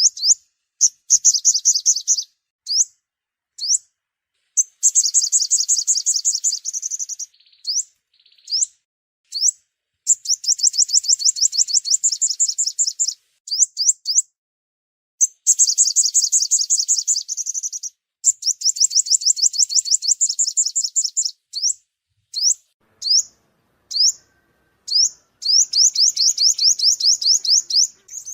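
Sunbird song: fast, high trills of short rising notes, each run lasting two to three seconds, with single sharp chirps scattered between the runs.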